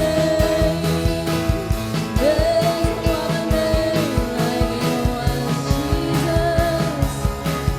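Live worship band playing: a steady drum beat under sustained keyboard and guitar, with a wordless vocal or lead melody line gliding over it.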